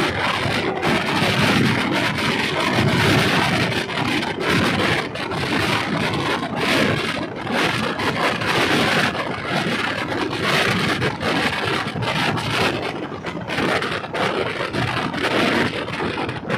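Diesel railcar running along the track: a steady, loud rattling clatter dense with small knocks.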